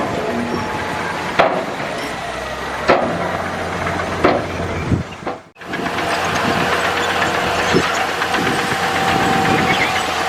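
Komatsu D65E bulldozer's diesel engine and tracks running steadily, with sharp knocks about every second and a half in the first half. After a brief cut partway through, the running continues evenly with a faint high whine.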